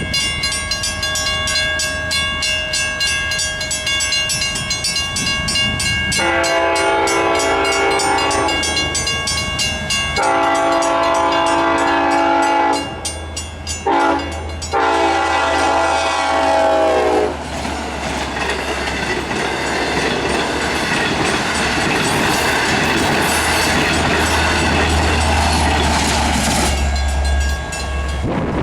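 Long Island Rail Road train approaching a grade crossing with the crossing bell ringing rapidly. The train's multi-chime horn sounds the crossing signal, long, long, short, long, its pitch dropping as it reaches the crossing. The train then rumbles past over a steady low engine drone that cuts off near the end.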